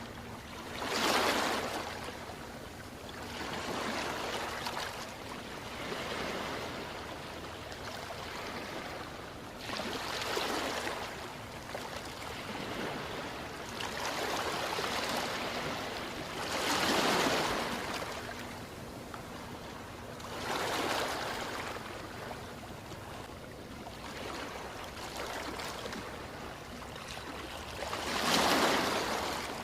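Ocean waves washing in on a shore, a constant hiss of surf with a louder wash every few seconds, the biggest about a second in, midway, and near the end.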